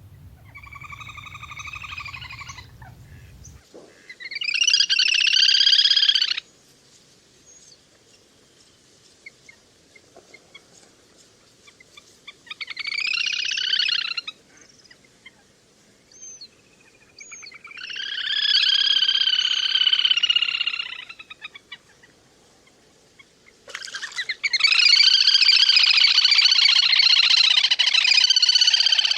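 Lesser whistling ducks giving their flock call: bouts of rapid, wavering whistled calls with gaps between. There are five bouts, and the last and longest starts about five seconds before the end.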